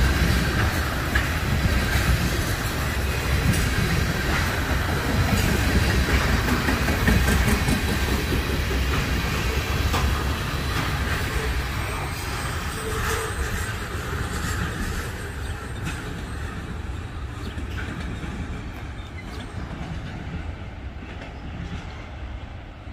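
Freight train cars rolling past, a heavy low rumble with wheels clicking over the rail joints, gradually fading away through the second half as the train recedes.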